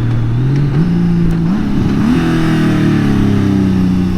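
2018 Honda Gold Wing DCT's flat-six engine under way, its revs jumping up twice in quick steps, as when downshifting with the paddle shifters, then holding steady, with wind rush.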